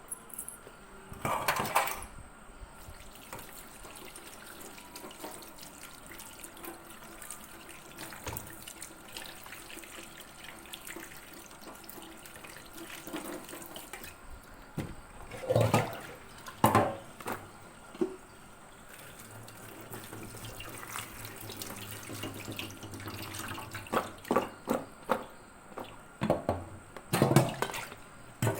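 Water running from a tap into a kitchen sink, with knocks and clatters of things being handled, in a cluster near the start, a few in the middle and a quick run near the end.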